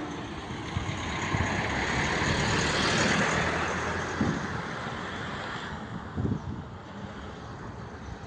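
Road vehicle noise: a hiss that swells to a peak about three seconds in and fades away by about six seconds, as a vehicle passing by would, with a couple of short low thumps.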